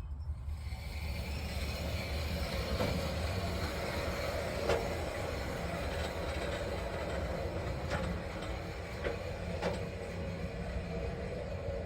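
Woodland Mills HM130 Max sawmill head rolling along its steel track, the wheels running steadily on the rails with several sharp clicks along the way.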